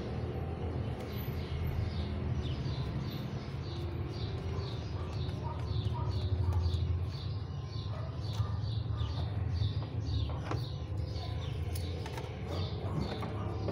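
A bird chirping over and over, about three short high chirps a second, over a low steady rumble.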